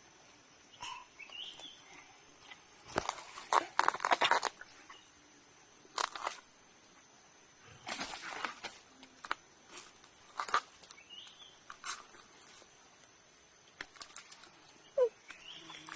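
Footsteps crunching and rustling through dry leaves and brush, in irregular bursts, with a couple of faint bird chirps.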